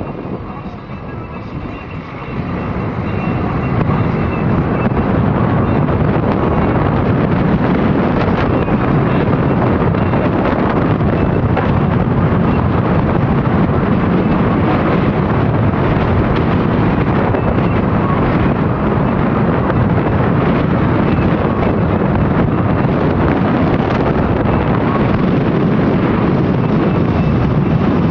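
Wind rushing over the microphone from a moving vehicle, mixed with road noise: a loud, steady rush that swells up over the first few seconds and then holds.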